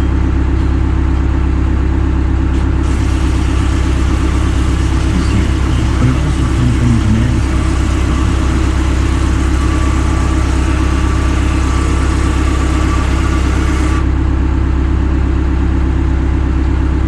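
A large engine idling steadily. From about three seconds in, a steady hiss joins it and cuts off suddenly near fourteen seconds.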